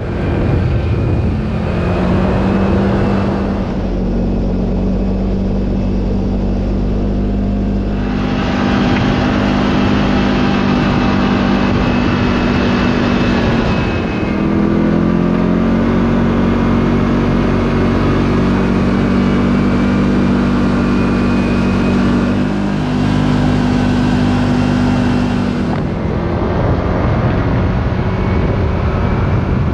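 Side-by-side UTV engine running as the machine drives along a trail, its pitch rising and falling with the throttle. Through some stretches there is added rushing noise, from wind and tyres.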